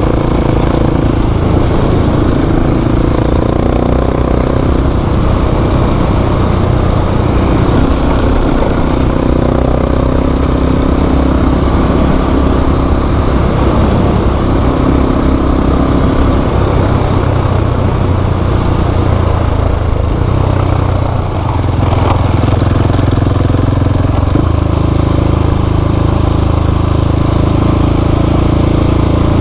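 Single-cylinder adventure motorcycle engine running at a steady cruise on a dirt road, with wind and road noise; the throttle eases off briefly about two-thirds of the way through, then picks up again.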